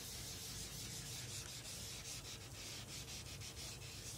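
A board being wiped clean with a duster: repeated rubbing strokes, fairly faint.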